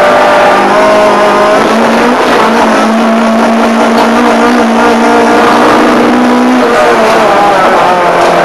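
Ford Fiesta 1.4 Zetec race car's four-cylinder engine running loud at high revs, heard from inside the cabin. The note holds steady for several seconds, then falls away about seven seconds in as the revs drop.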